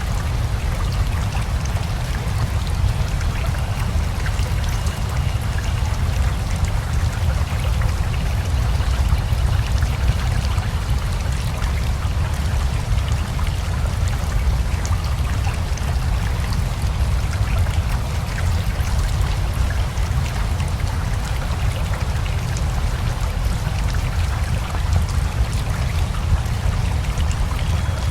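Steady rain mixed with flowing river water: a constant low rumble under a fine patter of drops.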